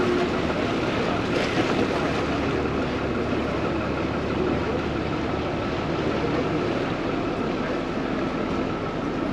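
Vaporetto water bus under way, its engine running with a steady noise heard on board.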